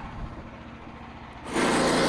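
Frontier OS27 portable bandsaw mill's small engine running low and steady, then suddenly much louder and brighter about one and a half seconds in.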